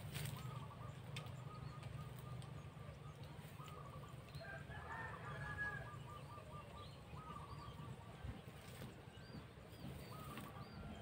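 Birds calling: runs of short, evenly repeated notes, thickest about halfway through, with faint higher chirps near the end, over a steady low rumble.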